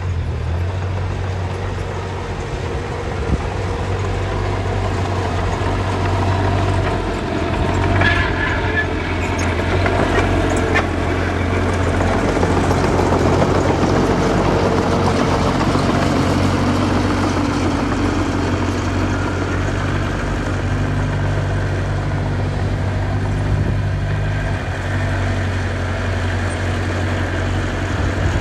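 Diesel engine of earthmoving machinery running steadily under load, with a few metallic squeaks and knocks about eight to eleven seconds in.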